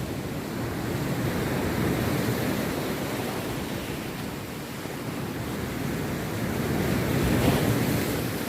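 Rough sea waves breaking on a beach, a steady rushing surf that swells as a wave crashes about two seconds in and again, loudest, near the end, with some wind on the microphone.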